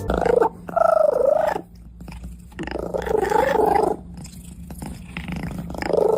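Domestic cat vocalizing in drawn-out, wavering calls, four of them with short pauses between.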